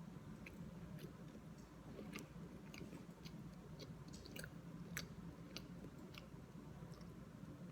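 A person chewing a mouthful of dry scone, faintly, with small sharp mouth clicks every second or so.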